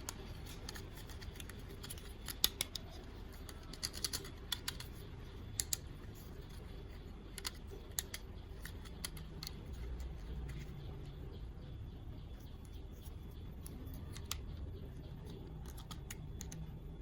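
Sparse sharp clicks and snips of a plastic toy and its packaging being handled and cut open, over a low steady hum.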